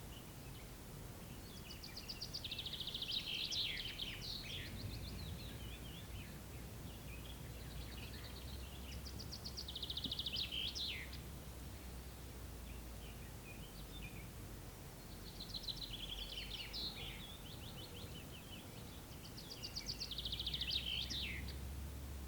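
A songbird sings the same short phrase four times, about every six seconds: a fast trill that ends in falling notes. A steady low rumble runs underneath.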